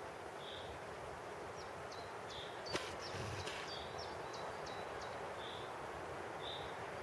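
Open-air ambience with a steady background hiss and small birds calling: a short high note repeated about once a second, and a quick run of sharp chirps through the middle. A single click comes a little under three seconds in.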